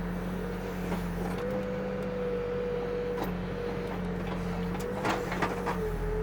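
Backhoe engine running steadily with a held hydraulic whine that wavers slightly in pitch as the machine works. A few clicks and knocks about five seconds in.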